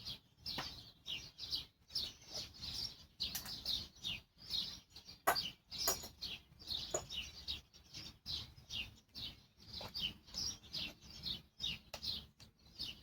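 Small birds chirping over and over, short high chirps that slide downward, a couple each second, with a few faint clicks in between.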